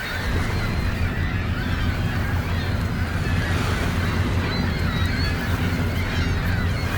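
Many birds calling over and over in short honking cries, over a steady low rumble.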